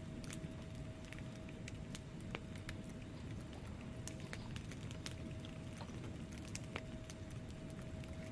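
Wood fire crackling in a fireplace: irregular sharp pops and ticks from the burning logs over a steady low rumble of the flames, with a faint steady tone in the background.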